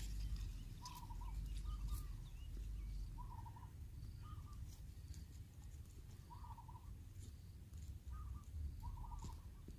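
A bird calling repeatedly: short warbled notes about once a second, at uneven spacing. A steady low rumble runs underneath.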